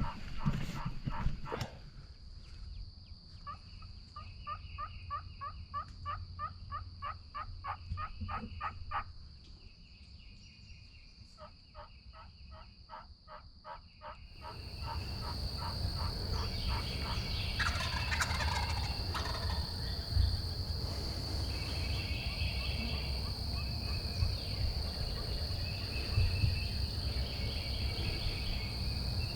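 Eastern wild turkeys calling: a long run of quick, evenly spaced yelp-like notes in the first half. About halfway through, a steady high insect drone comes up under further short, scattered turkey calls.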